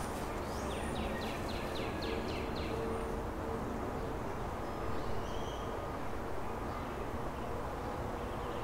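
Birds calling outdoors: one repeats a short descending note about four times a second for nearly two seconds, starting about a second in, with a few scattered high, thin chirps, over a steady low background noise.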